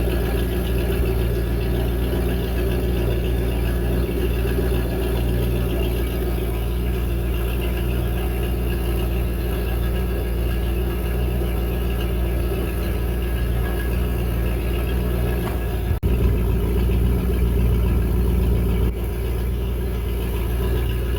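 Boat engine with a Volvo Penta 280 sterndrive idling steadily in neutral, its carburetor freshly rebuilt and water-pump impeller new. About three-quarters through there is a click and it runs a little louder for about three seconds, then settles back.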